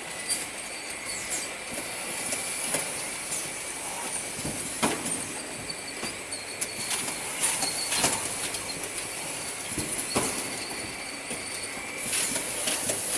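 Automatic oil-filling production line running: a steady mechanical hiss with thin high whining tones, and irregular clicks and clanks from the machinery.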